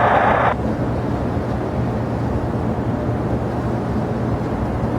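Steady rumble of jet aircraft engines across the airfield, with a low hum under it. A burst of air traffic control radio cuts off about half a second in.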